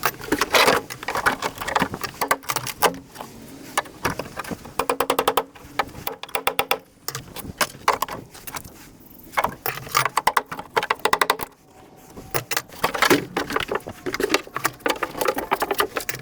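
Metal clattering, scraping and clicking as a freezer's sheet-metal panels and pipework are worked apart by hand. The knocks and clicks come in quick irregular runs, with a brief squealing tone a few seconds in.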